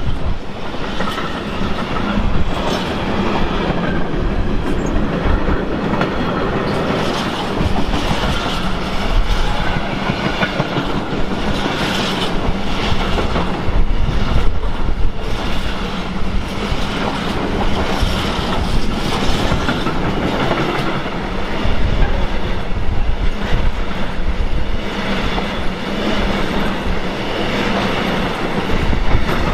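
A train passing close by for a long stretch, its wheels clattering over the rail joints with the steady rumble of the cars, and a little wheel squeal.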